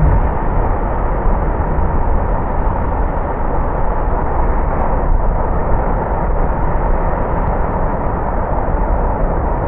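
A car driving on a wet road: a steady rumble and hiss of tyres and engine.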